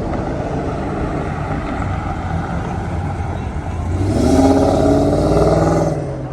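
Car engines running with a steady low rumble, then a louder car engine accelerating for about two seconds from about four seconds in.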